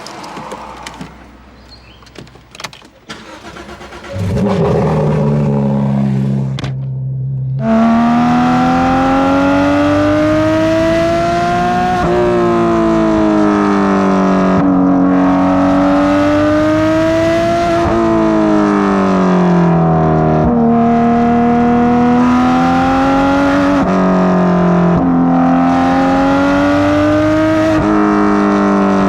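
Porsche 991.2 GT3 RS flat-six with Dundon street headers and pipe: a few clicks, then the engine starts about four seconds in and idles briefly. It then runs loud while being driven, its pitch climbing and falling, with sudden drops at gear changes.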